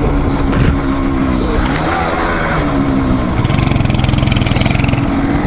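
Single-cylinder dual-sport motorcycle engine running on a dirt trail, its engine speed dipping and rising with the throttle. It turns louder and deeper about three and a half seconds in.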